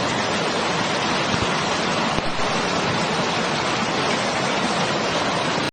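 Torrential rain and rushing floodwater: a steady, dense wash of water noise with no breaks.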